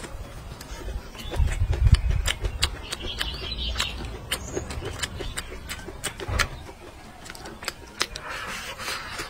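Close-miked eating sounds: wet mouth smacks and many short crisp clicks of green chili and rice being bitten and chewed. A low rumble, the loudest part, comes about one and a half seconds in and lasts about a second.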